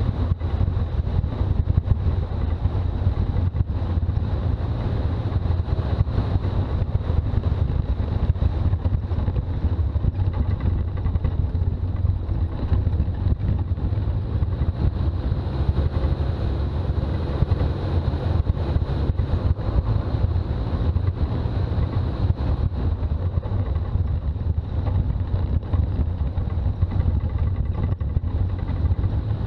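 Steady low drone of a Toyota BJ40 Land Cruiser on the move, its diesel engine and road noise running evenly without revving.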